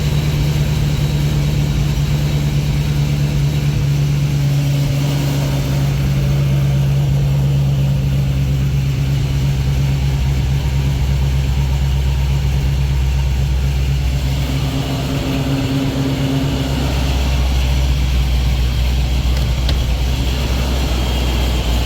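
Supercharged car engine idling steadily just after starting on a freshly installed battery; it runs smoothly, which the owner calls purring like a kitten.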